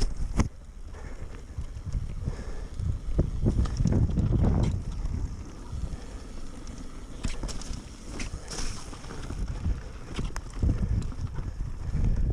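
Wind buffeting the microphone in gusts, a deep rumble that swells and drops, with a few sharp clicks and knocks.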